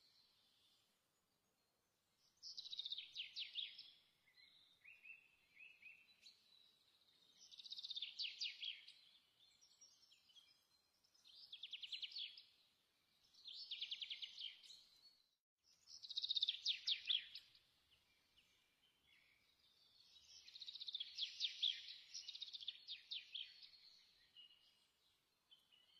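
A songbird singing short phrases of rapid trilled notes, high-pitched, every few seconds with quiet gaps between them.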